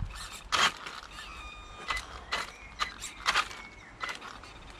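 Small electric RC truck's motor and gearbox whining in short spurts, with a series of sharp knocks and scrapes as it works its way over the wooden bridge.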